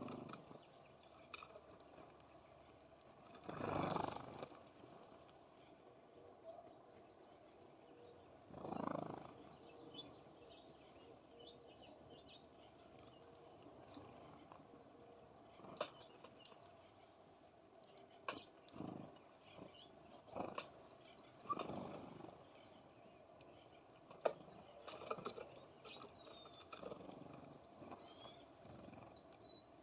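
A small songbird repeats a short high call about once a second, while sharp clicks and taps come from birds at the feeder. Two brief louder rushes of noise come about four seconds in and again near nine.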